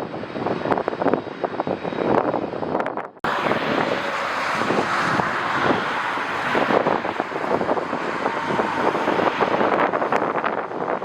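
Jet airliner's engines running, heard through strong wind buffeting the microphone. The sound drops out for a moment about three seconds in, then carries on as a steadier roar.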